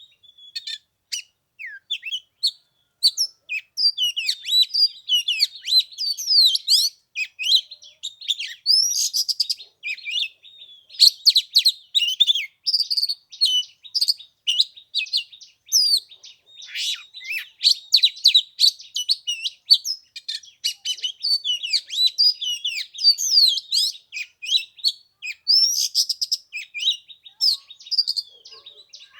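Oriental magpie-robin singing a long, varied song of quick whistles, slides and chirps, with only short pauses.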